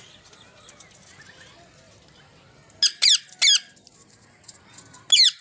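Indian ringneck parakeet giving three short, loud, shrill calls, each falling in pitch: two close together about three seconds in and one near the end, over faint chirping.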